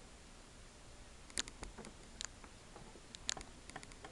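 Scattered sharp clicks and taps of small plastic toys being handled and set down: three louder ones spaced about a second apart, with a few fainter ticks between.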